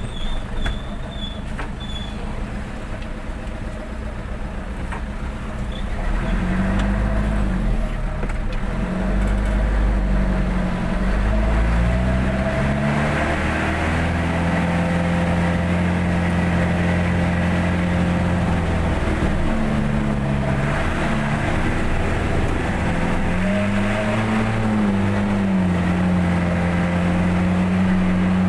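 Truck engine pulling away: the engine note gets louder about six seconds in and climbs and drops a few times as it works through the gears, then runs at a steady pitch, rising and falling once more near the end.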